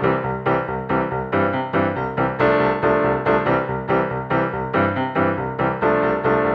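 Piano music: a steady run of struck notes, a few a second, each ringing and fading into the next.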